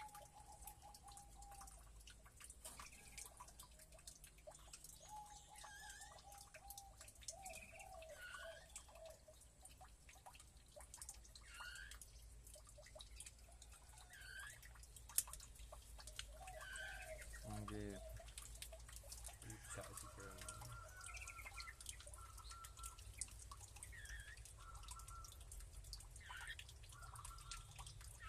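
Caged birds calling faintly: scattered short chirps and whistled calls throughout, with a lower, harsher clucking call a little past halfway, over small clicks.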